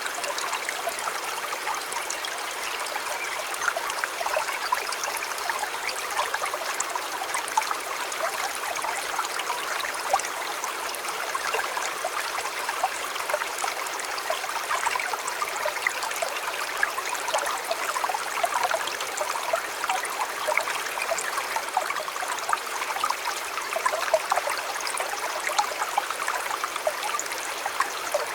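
Shallow river flowing, a steady burbling and trickling of water over stones with many small splashes.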